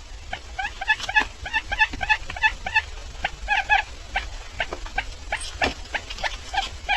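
Barred buttonquail calling: a steady run of short, pitched notes, several a second and often in quick pairs, with a few sharp clicks among them over a low steady hum.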